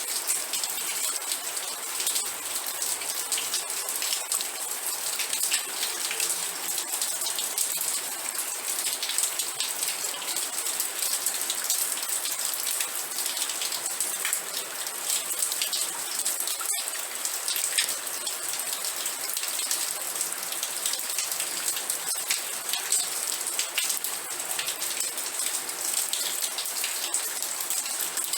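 Steady rain falling, an even hiss dense with the ticks of individual drops, with a momentary break about two-thirds of the way through.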